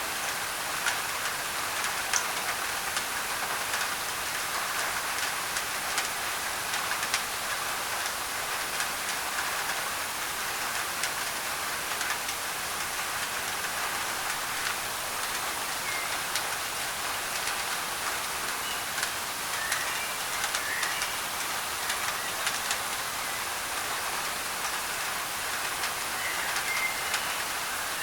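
Steady heavy rain on a thin tin roof, a dense patter of sharp drop ticks over an even hiss, mixed with white noise. A few faint short bird chirps come through in the second half.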